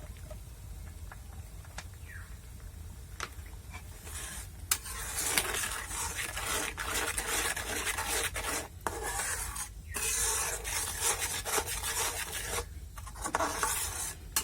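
A spoon stirring and scraping a spice masala in a hot pan, with a faint sizzle. It starts about four seconds in, after a few light clicks, and keeps going with brief pauses.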